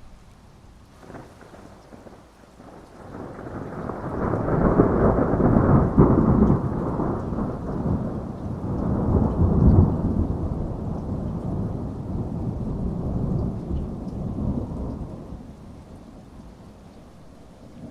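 A long roll of thunder over steady rain. A faint crack comes about a second in, then a deep rumble swells from about three seconds, rolls in several waves, and dies away near the end, leaving the rain.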